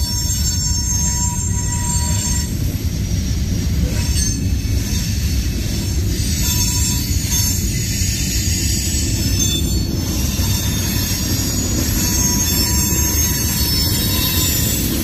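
Freight cars (covered hoppers, then tank cars) of a manifest train rolling past close by: a steady heavy rumble of steel wheels on rail, with faint high squealing tones from the wheels.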